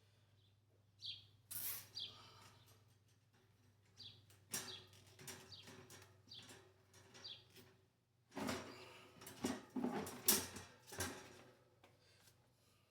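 A bird chirping several times in short, high, falling notes, with a few seconds of clattering and scraping from objects being handled past the middle, the loudest part.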